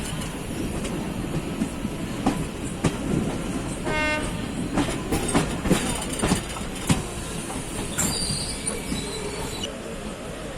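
Passenger train running along the track: a steady rumble with irregular sharp clicks of the wheels. About four seconds in comes a brief high-pitched horn-like toot, and a thin high whine sounds for a second or two a little after eight seconds.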